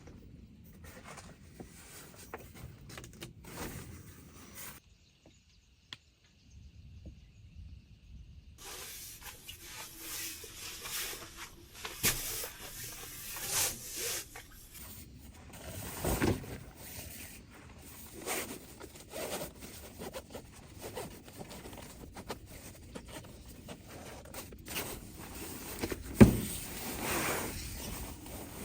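Rustling and handling noises with irregular knocks and clicks, a few louder knocks around the middle and one sharp one near the end.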